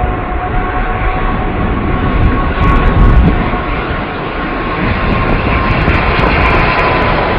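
Jet noise of a Singapore Airlines Airbus A380 on its landing approach, its four Rolls-Royce Trent 900 engines making a loud, steady roar. Two whining engine tones drop slowly in pitch, and the roar peaks about three seconds in.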